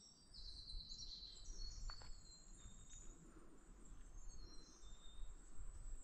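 Songbirds singing, faint high thin trills and chirps repeating from several birds in the woods.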